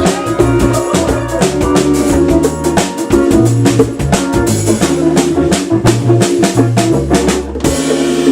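Live band playing an instrumental passage, a drum kit keeping a steady beat under a bass line and held chords. About seven and a half seconds in the drums and bass stop and a chord rings on.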